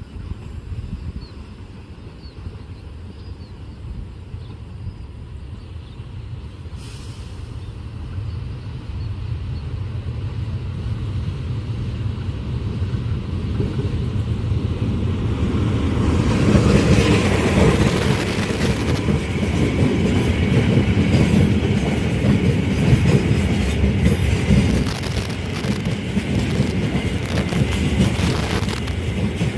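A train approaching, its low rumble growing steadily louder, then passing close by about halfway through with a loud, steady rumble and clatter of wheels on rails.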